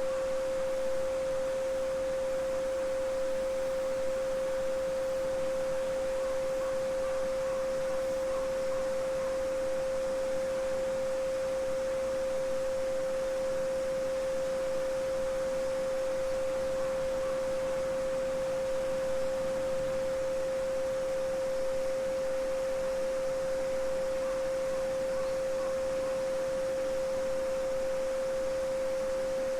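A steady 528 Hz pure sine tone (the Solfeggio frequency) held without change, over a faint even wash of babbling-brook water.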